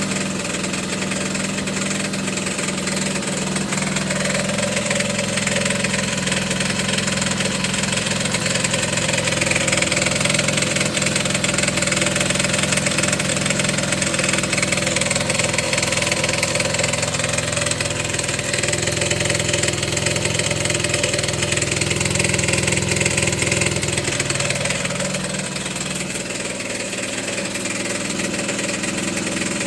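Suzuki Sepia scooter's 50 cc two-stroke single-cylinder engine idling with a knock, which the owner takes for an engine fault.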